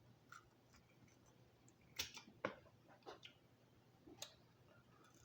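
Near silence broken by about five faint, sharp clicks from eating lobster, the strongest two about two seconds in.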